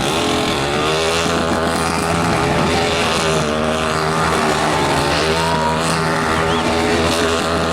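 Motorcycle engine held at high revs during a spinning or drifting stunt, its pitch wavering only slightly.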